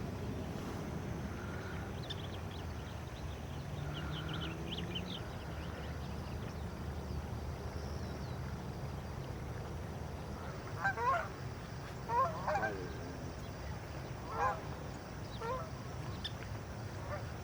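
Birds calling outdoors: a handful of loud calls in the second half, with faint high chirps earlier, over a steady low background rumble.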